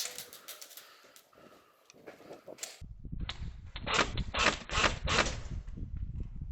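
Airsoft guns firing several bursts of rapid, clicking shots, starting about three seconds in, with the loudest bursts in the middle. Before that there are only faint scattered clicks.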